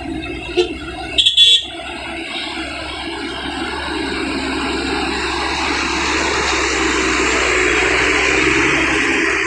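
Trucks on an uphill road: a short horn blast about a second in, then engine noise growing steadily louder.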